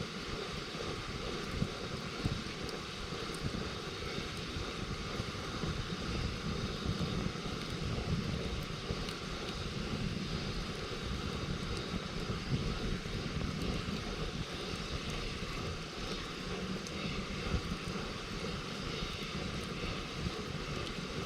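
Steady low rumble under faint, scattered crackles from a wood campfire.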